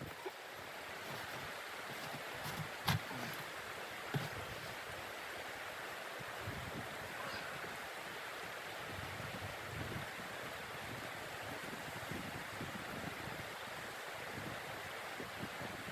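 Steady rushing of blizzard wind, swelling over the first second or two and then holding even, with two sharp clicks about three and four seconds in.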